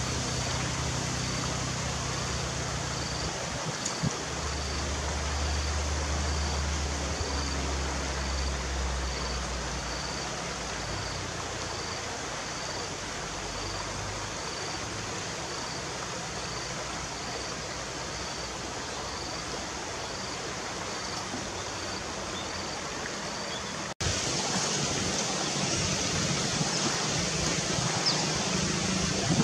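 Steady rushing outdoor noise, like a stream or wind, with a faint short high note repeating about once a second. A low hum rises for several seconds early on, and the sound cuts abruptly about 24 s in to a slightly louder rushing.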